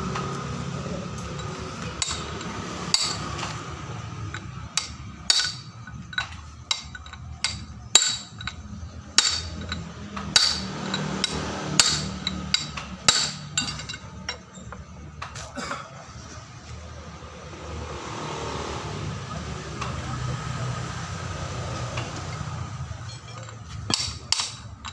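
Hammer blows on steel: sharp, ringing clanks, irregular and about one or two a second, pausing partway through before a few more near the end, as the threaded bearing adjusters of a Hino Ranger truck's differential are knocked round. A steady low hum runs underneath.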